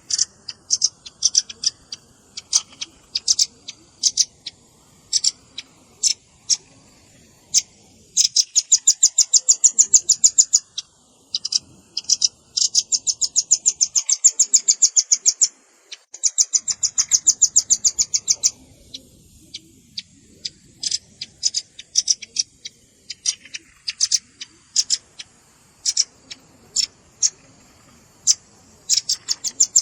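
Velvet-fronted nuthatch (rambatan paruh merah) calling, as used on a bird-catching lure track: sharp, high chip notes, broken by several fast, high rattling trills that each last two to three seconds.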